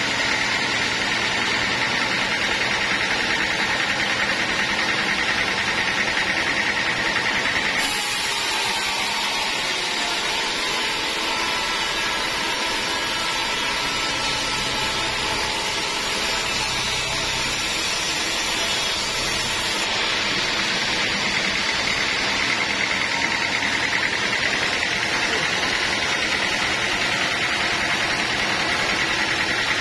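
Sawmill saw running and cutting teak wood, a steady loud machine noise. Its tone shifts abruptly about eight seconds in and shifts back about twenty seconds in.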